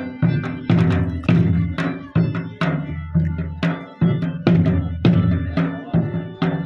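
Folk dance music driven by a drum: loud, sharp drum strokes about twice a second over a sustained pitched accompaniment.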